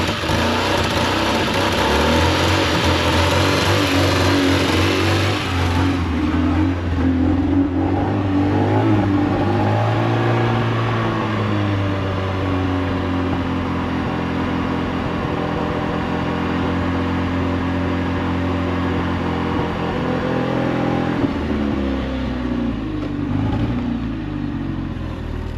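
A car engine running, its pitch shifting a few times as the revs change.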